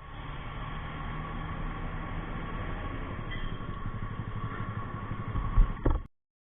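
Motorcycle engine running steadily with road noise. Two loud thumps come near the end, and then the sound cuts off suddenly.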